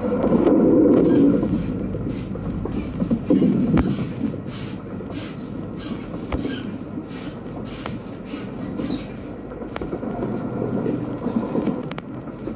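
Running noise of an E3 series Shinkansen train heard from inside the car on the conventional-line section: a steady rumble of wheels on rail with a few sharp clicks. It swells louder about a second in and again a few seconds in.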